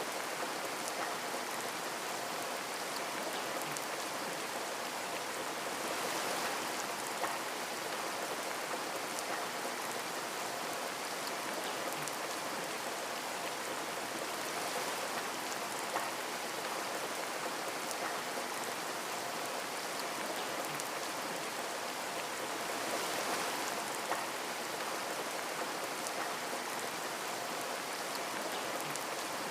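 Steady rain falling on a window, an even patter with a few single sharper drop ticks and gentle swells in intensity.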